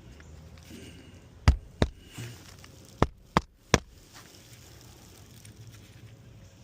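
Hammer driving roofing nails into a shingle: five sharp strikes, a pair about a second and a half in, then three in quick succession.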